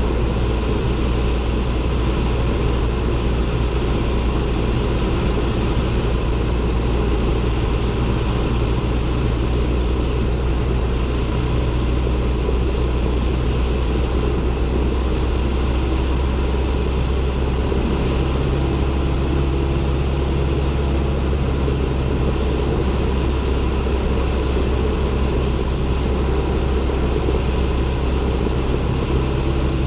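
Cessna 172N's four-cylinder Lycoming engine and propeller running steadily, heard from inside the cockpit. The note shifts slightly about eighteen seconds in.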